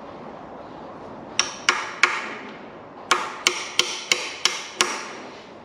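A hammer tapping on metal parts of a stripped-down engine: three ringing taps, a short pause, then six more evenly paced taps. The taps are used to free a part during the strip-down.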